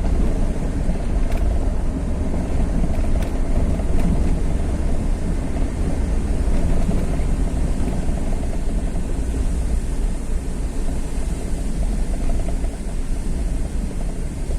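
A vehicle travelling along a road, with a steady low rumble of engine and road noise.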